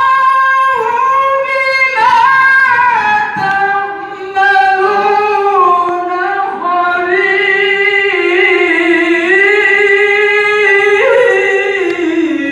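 A Qur'an reciter's solo voice in melodic tilawah, drawing out long ornamented notes whose pitch winds up and down, with a brief break about four seconds in.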